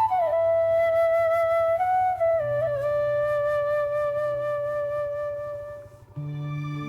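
Background music: a flute plays a slow melody of long held notes with short slides between them, over a low steady drone. The phrase fades out about six seconds in, and a new, lower-pitched section begins.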